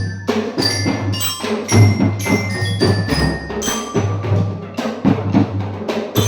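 A percussion ensemble playing: quick struck notes from metal mallet instruments ring high over steady low drum beats.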